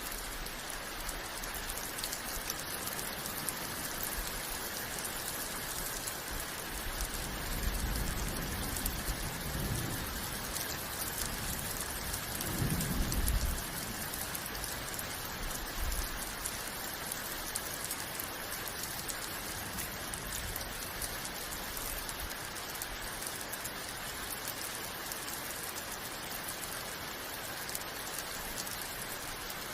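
Steady rain falling and pattering on surfaces, an even hiss, with two brief low rumbles around the middle.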